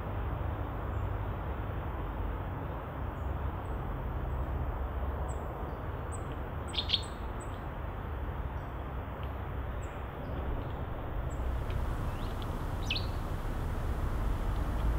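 A few short, high bird chirps, with faint thin peeps between them. The loudest chirp comes about seven seconds in and a couple more come near thirteen seconds. All of it sits over a steady low background rumble.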